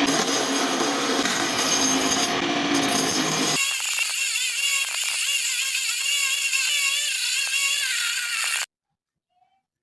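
Power tool working PVC plastic: a dense grinding noise that, about a third of the way in, changes to a thinner whine wavering in pitch, then stops abruptly near the end.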